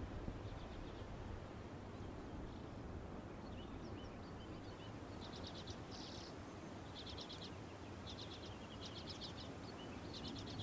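Faint outdoor ambience of open tundra, with small birds calling in short, rapid trills, several of them in the second half.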